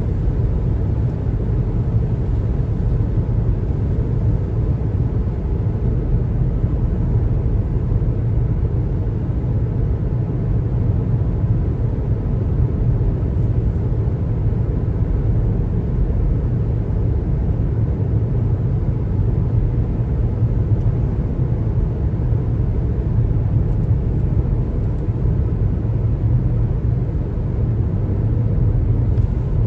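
Steady low rumble of road noise from a car driving: tyres on pavement and the running engine.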